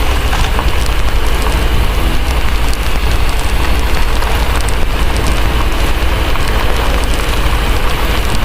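Steady heavy rain with a constant deep low rumble beneath it and scattered small crackles of a wood fire.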